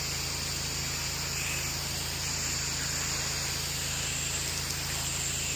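Pressure washer running steadily, its motor humming under the constant hiss of the water spray.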